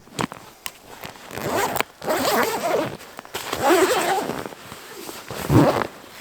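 Tent gear being handled: three long rasping rustles, each about a second, after a few sharp clicks at the start.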